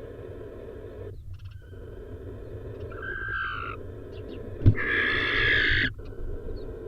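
Barn owls' harsh hissing screech calls: a short one about three seconds in, then a sharp knock and a louder, longer hissing screech lasting about a second, over steady low background noise.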